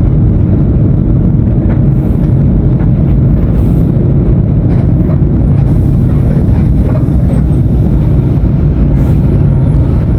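Mercedes-Benz OF-1519 BlueTec 5 bus diesel engine running steadily, loud and low-pitched.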